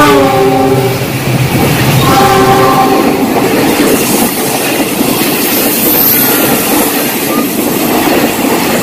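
Train horn sounding, its pitch dropping a little, and sounding again about two seconds in, over the steady noise of a moving train.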